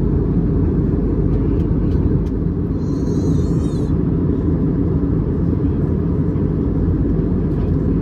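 Steady cabin rumble inside an Airbus A321neo airliner in flight: engine and airflow noise holding level throughout. A brief high-pitched squeak sounds about three seconds in.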